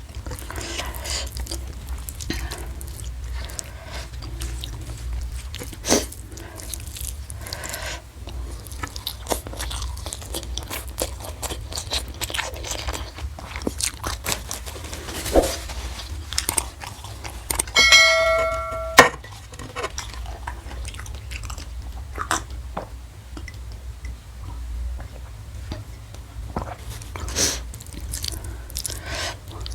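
Close-miked chewing and crunching of food, with many small wet clicks from the mouth, over a steady low hum. About eighteen seconds in, a brief ringing tone is heard, ending in a sharp click.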